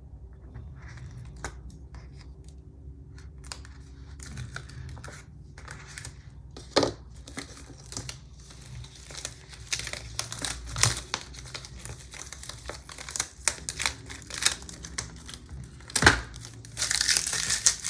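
Paper backing being peeled off a sticker sheet and handled: scattered crinkling and crackling of paper, with a louder, denser run of crinkling near the end.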